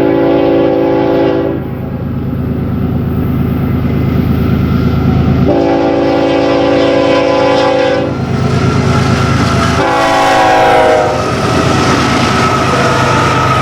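BNSF freight locomotive's multi-chime air horn sounding over the steady rumble of the diesel engines. One blast ends about a second and a half in and a second long blast runs from about 5 to 8 seconds. A shorter blast near 10 seconds drops in pitch as the locomotive passes.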